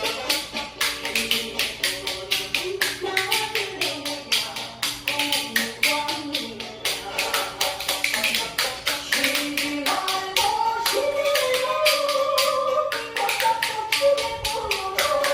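Spoons struck together in a fast, steady rhythm of sharp clicks, played along to a recorded Korean trot song with its melody running underneath.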